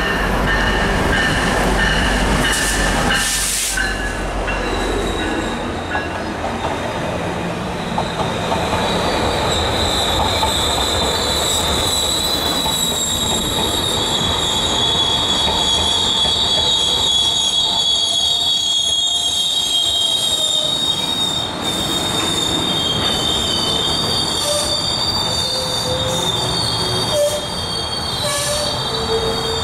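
GO Transit bilevel commuter train rolling past along the platform. A low rumble and knocking come as the leading end passes in the first few seconds. A high, steady squeal from the moving train then holds through the rest.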